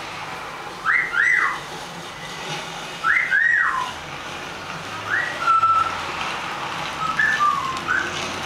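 Eclectus parrot whistling a short rising-and-falling phrase, repeated four times about two seconds apart.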